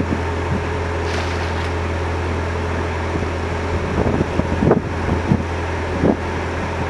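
Narrowboat engine running with a steady low hum, with gusts of wind buffeting the microphone from about halfway through.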